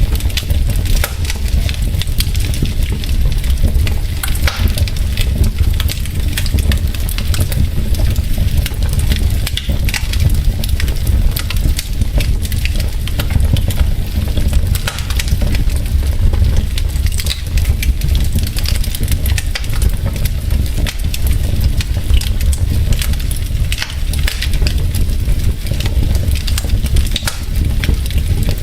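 Wood logs burning in a fireplace, crackling steadily with many small irregular pops and snaps over a low, steady rumble.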